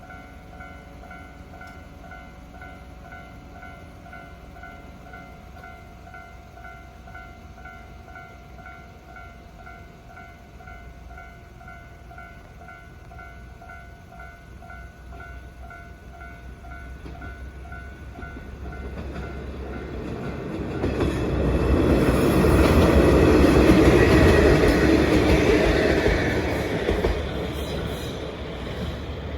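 Level-crossing warning bell ringing with a rapid, evenly repeating ding, then a Watarase Keikoku Railway diesel railcar approaching and running over the crossing, loudest about three-quarters of the way through and fading near the end.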